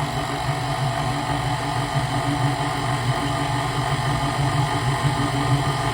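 Electric mixer switched on and running at a steady speed, its motor humming as it mixes a stiff dumpling batter of flour, baking powder, seasonings and melted butter.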